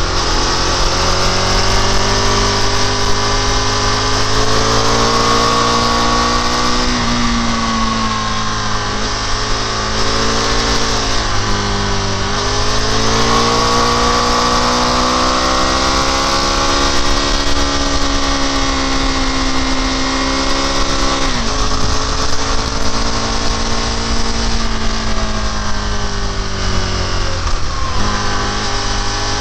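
Motorcycle engine running under way, its pitch climbing in long sweeps under acceleration and dropping suddenly several times at gear changes or throttle-off, over a steady rush of wind noise.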